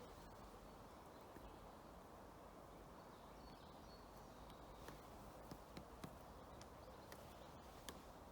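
Woodpecker pecking at wood: faint, irregular single sharp taps, about one or two a second, starting about halfway through, over a low steady background hiss.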